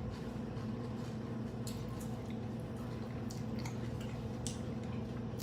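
A person chewing food close to the microphone, with scattered short wet clicks, over a steady low electrical hum.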